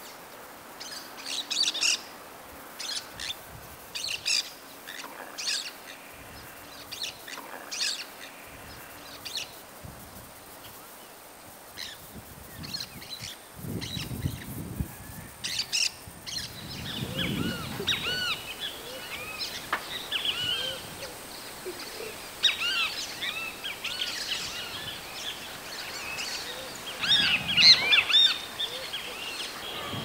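Wild bird calls. For about the first 16 seconds there are short, sharp, high calls roughly once a second, matching the white monjita. After that a busier chorus of overlapping twittering calls from several birds takes over.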